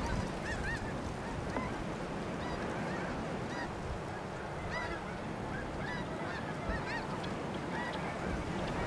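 Snow geese calling: many short, high, arched honks in quick scattered bursts through the whole stretch, over a steady low rumble.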